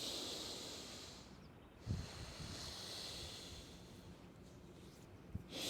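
A person's deep, forceful breaths through the mouth, the power breaths of a Wim Hof method breathing round: one breath at the start, a longer one about two seconds in, and another beginning near the end. A short dull thump comes about two seconds in.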